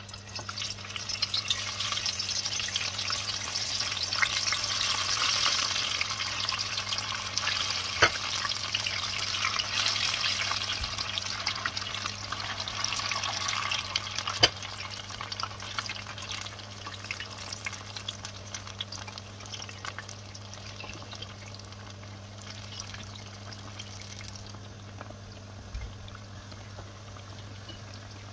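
Saheena frying in hot sunflower oil: a dense crackling sizzle that is strongest at first and dies down over the second half. There are two sharp taps partway through, over a steady low hum.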